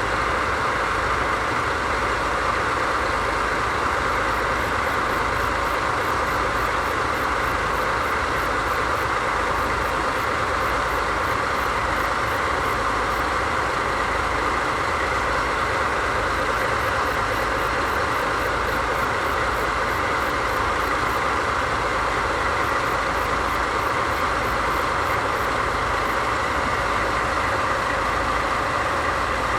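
DD51 diesel-hydraulic locomotive's twin V12 diesel engines idling steadily.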